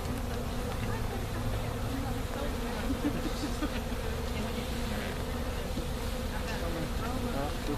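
Honey bees buzzing around an opened hive: a steady, even hum, with short rising and falling notes as single bees fly close by.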